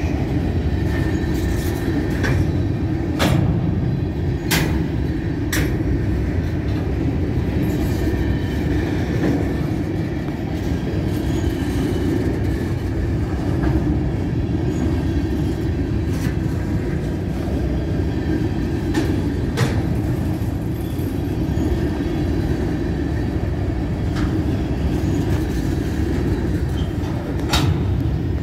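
Freight train of covered hopper cars rolling past at close range: a steady rumble of steel wheels on rail, with scattered sharp clanks and clicks as the cars go by.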